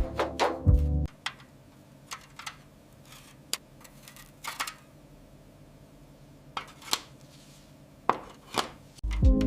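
Background music stops about a second in. After that come scattered sharp clicks and taps, about eight of them, from small hard objects being handled. The music returns near the end.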